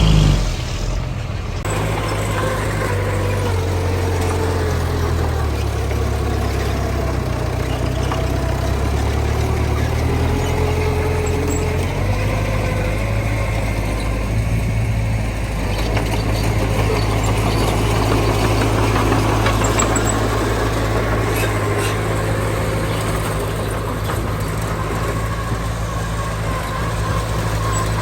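Diesel engine of heavy earthmoving machinery running steadily, with its pitch drifting slightly up and down as it works.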